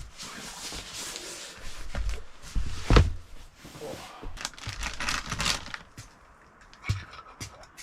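Handling noises as food packages are moved about: rustling and crinkling packaging with scattered clicks, and one solid knock about three seconds in.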